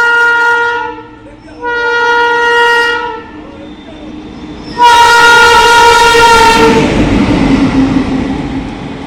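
Locomotive air horn sounding three blasts, the third the longest and loudest, then the loud running noise of the train passing close by.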